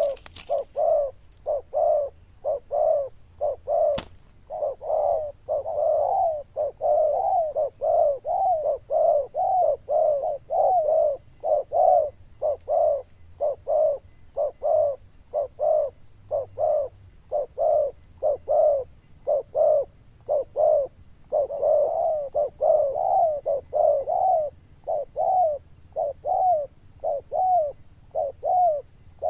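Spotted dove cooing in a long, steady series of short coos, about two a second: the repeated 'gù' coo that Vietnamese dove keepers judge, here praised as loud and bell-like. A single sharp click sounds about four seconds in.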